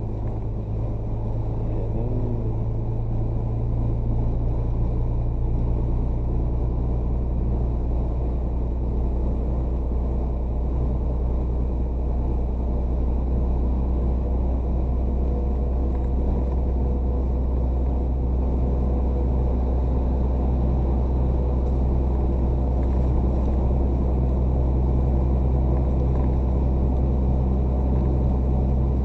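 Heavy truck engine running steadily, a low drone that grows a little louder over the first few seconds.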